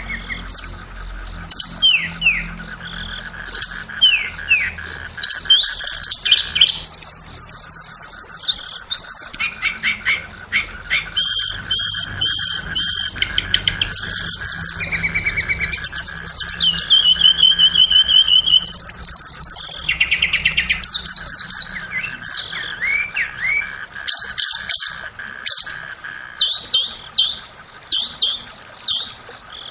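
Tledekan bird song: a dense, fast run of sharp chirps, rapid trills and short whistled phrases, repeated without pause, played as a master or lure recording meant to draw tledekan birds into calling. A steady faint high hum runs underneath.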